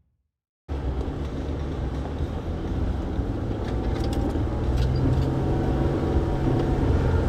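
Jeep Wrangler Willys crawling up a rocky hill in low range, its engine and drivetrain a steady low drone that starts abruptly under a second in and grows slightly louder. A few faint clicks and knocks come around the middle.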